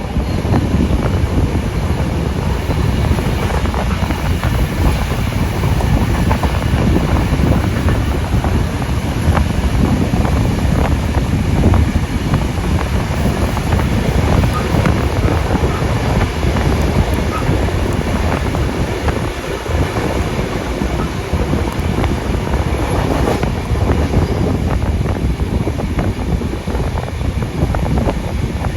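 Steady running noise of a steam-hauled passenger train heard on board: a continuous low rumble of the cars on the rails, with wind on the microphone.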